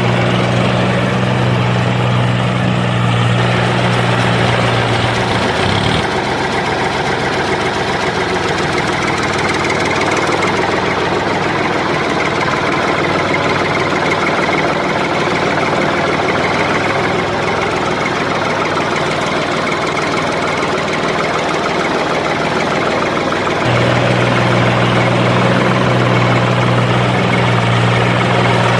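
A machine running steadily, with a low hum that cuts out about six seconds in and comes back near the end.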